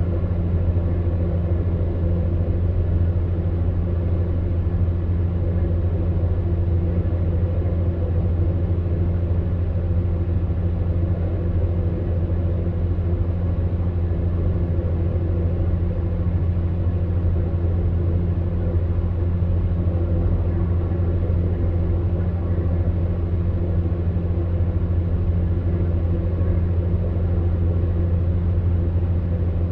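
Electric fan heater running steadily: a constant low motor hum with a few fainter steady tones above it, over a soft, even rush of air from the fan.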